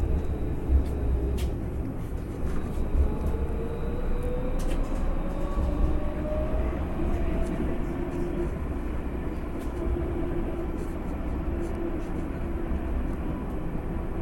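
Tram running, heard from inside the car: a steady low rumble of wheels on rails, with a motor whine that slowly rises in pitch over a few seconds as the tram gathers speed.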